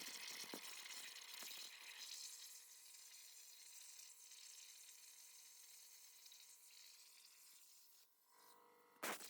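Faint hissing sizzle of a CNC plasma cutter cutting steel plate, thinning out near the end, with one short sharp crack just before the end.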